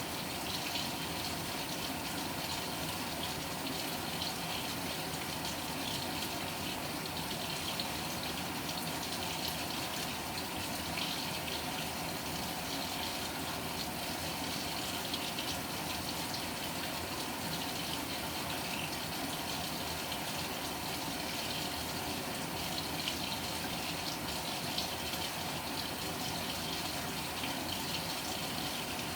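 Water pouring steadily into the tub of a Panasonic NA-FA100H9 top-loading washing machine as it fills.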